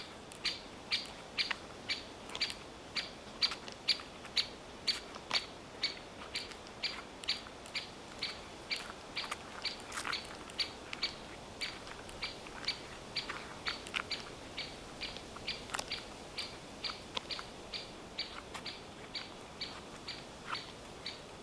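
A bird repeating one short, high call over and over at a steady pace, about two to three calls a second, with a few faint clicks in between.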